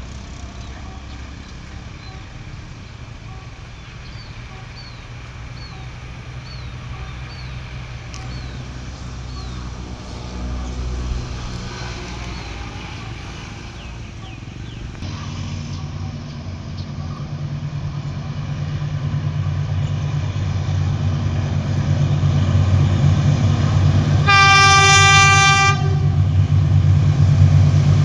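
GEK-class diesel-electric locomotive approaching, its low engine rumble growing steadily louder over the second half. Near three-quarters of the way through it sounds one horn blast of about a second and a half. Earlier, a run of about seven short falling chirps sounds a little under a second apart.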